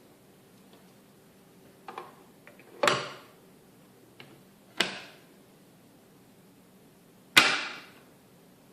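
Plastic parts of a ResMed H4i humidifier chamber being handled: four sharp clicks or knocks, each with a short ringing tail, the last and loudest near the end.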